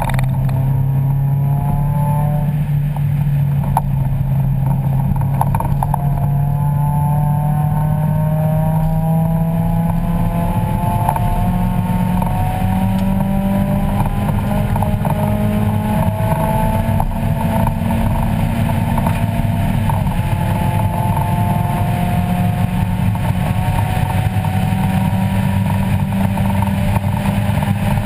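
1994 Mazda Miata's 1.8-litre four-cylinder engine running hard under throttle on track, heard from inside the cabin. Its pitch climbs through the first half, steps higher, drops back about two-thirds of the way in, then rises again.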